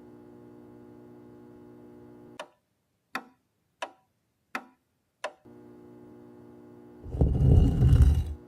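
Five sharp ticks, evenly spaced about two-thirds of a second apart, with a steady low electrical hum before and after them. Near the end comes a loud burst of rumbling noise lasting about a second and a half.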